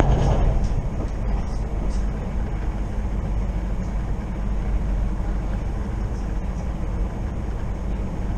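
Steady rumble of a moving passenger train heard from inside the carriage, louder in the first half second as the train comes off a steel truss bridge. A few faint clicks come in the first two seconds.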